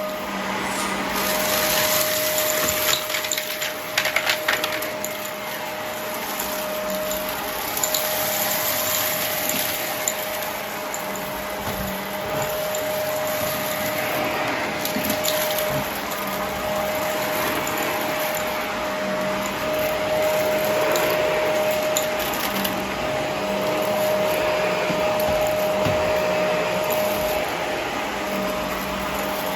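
Vacuum cleaner running steadily over the floor, its motor giving a constant whine, with a few sharp crackles of debris being picked up about three to five seconds in.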